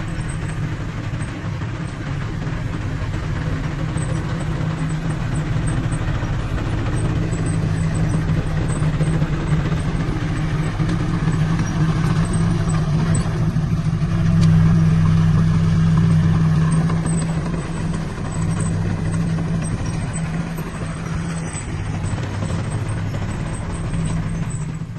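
Heavy diesel engine of earthmoving equipment running steadily under load, swelling louder about halfway through and then easing back.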